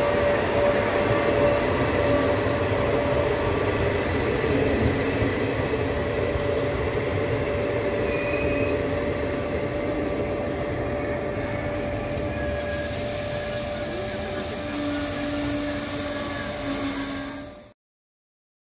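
Trenitalia regional passenger train running past, its carriages rolling by with a steady rumble of wheels on rail and a thin steady whine over it. The sound fades slowly, then cuts to silence near the end.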